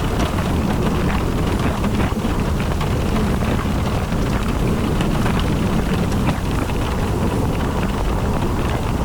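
A car driving in the rain: a steady low rumble of road and wind noise, with rain falling and scattered faint ticks of drops.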